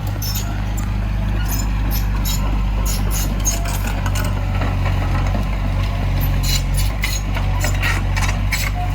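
Diesel engine of heavy earthmoving machinery running steadily, with scattered clanks and knocks over it.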